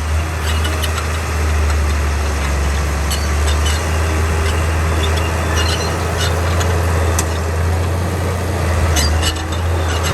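Heavy diesel earthmoving machinery running steadily, its engine a deep continuous drone, with scattered short clanks and ticks of metal and material over it.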